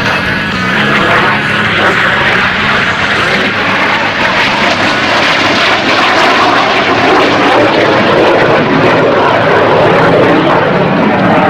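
Jet noise from the Snowbirds' CT-114 Tutor jets flying past, a steady rushing sound that grows a little louder toward the end.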